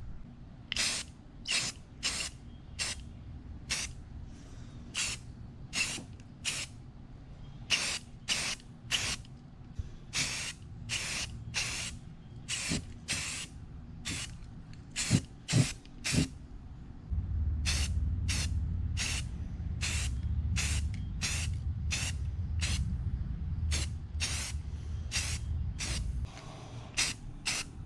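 Spray paint being applied to a mower deck in dozens of short hissing bursts, one to two a second. A low rumble joins in for several seconds in the second half.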